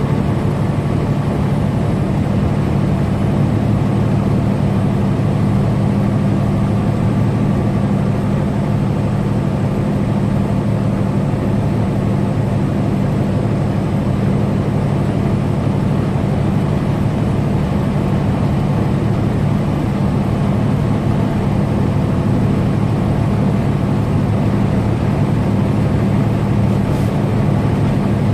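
Semi truck's diesel engine and road noise at steady highway cruise: an even low drone that does not change in pitch or loudness.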